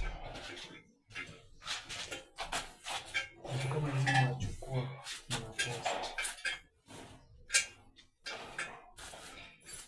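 Repeated clinks and clatters of hard objects being handled, with a brief stretch of low voices in the middle.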